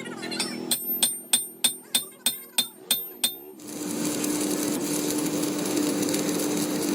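Hammer striking metal about three times a second, each blow ringing, nine blows in all. About halfway through, the blows stop and a workshop machine starts running with a steady hum.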